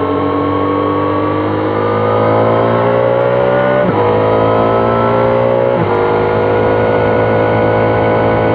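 Triumph Trident 660's inline three-cylinder engine accelerating, its pitch rising through the revs, with two quick upshifts about four and six seconds in, then running at a steadier speed.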